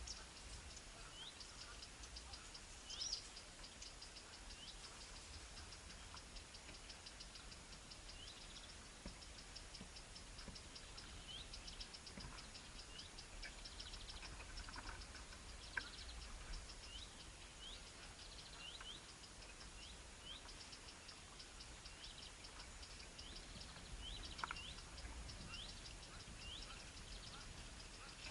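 Faint bird calls: short rising chirps about once a second, over a fast, high, even ticking trill and a low steady rumble.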